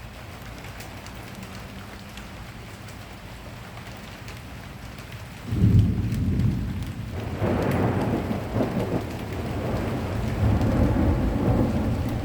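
Steady rain falling, then about five and a half seconds in a loud thunderclap breaks in, deep and low, and rolls on in repeated rumbles for several seconds.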